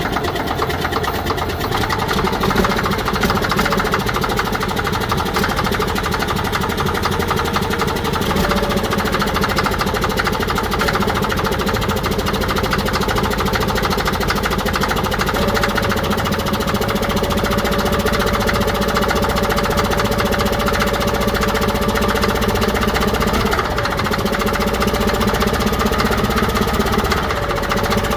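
Caterpillar D6D bulldozer's diesel engine running in the cold with a steady, rapid clatter, its speed stepping up slightly now and then.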